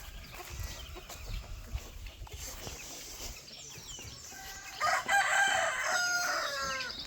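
A rooster crows once, a long call starting about five seconds in and dropping in pitch at the end. Faint high chirps of other birds sound around it.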